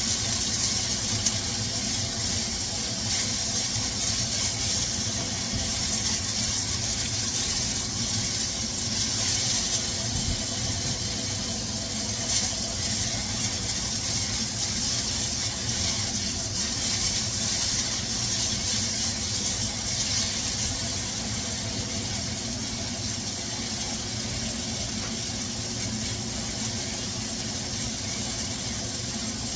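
Chicken pieces sizzling steadily as they fry in a nonstick wok, stirred at times with a spatula, over a steady low hum.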